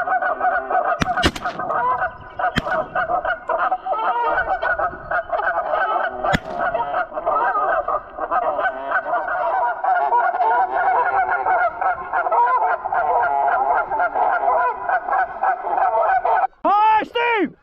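A large flock of geese honking, many birds calling over one another in a continuous clamour, with a few sharp clicks in the first seconds. Near the end the chorus breaks off, then a few separate rising-and-falling calls are heard.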